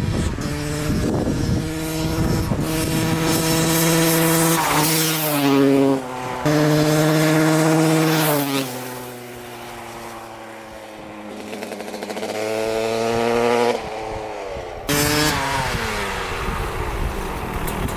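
1995 Kawasaki KX250's single-cylinder two-stroke engine being ridden hard. Its pitch climbs as it revs out and drops back several times. It falls quieter and lower around the middle, then rises again.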